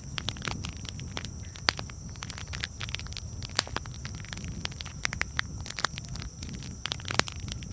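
Campfire crackling: irregular sharp pops and snaps, a few of them louder, over a steady low rumble from the burning fire.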